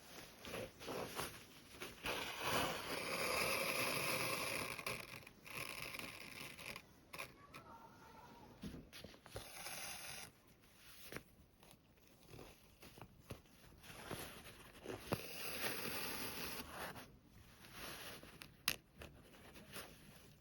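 Fabric being handled: cloth rustling and sliding in two longer swishes, with scattered light clicks and one sharp click near the end.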